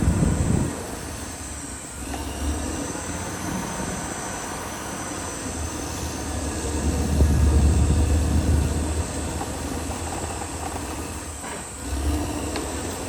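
Caterpillar D6R XL crawler bulldozer at work: the diesel engine runs steadily under the clatter of its steel tracks, growing louder for a couple of seconds around the middle as it pushes harder, then easing briefly near the end.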